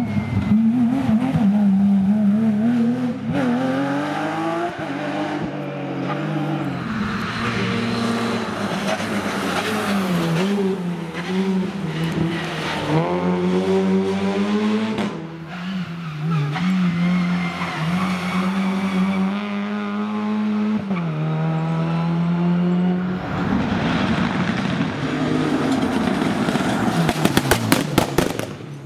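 Rally car engine at full throttle, its pitch climbing and dropping again and again through gear changes, followed near the end by a quick run of sharp exhaust pops and bangs.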